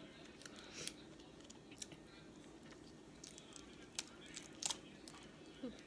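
Faint, scattered cracks and crunches of a crab knuckle's shell being bitten and picked apart, with chewing in between.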